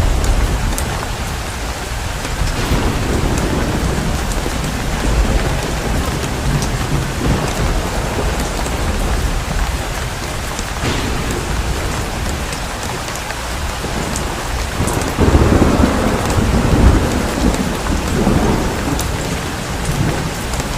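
Heavy rain pouring steadily, with thunder rumbling low underneath. The rumble swells twice, briefly a few seconds in and more strongly about three quarters of the way through.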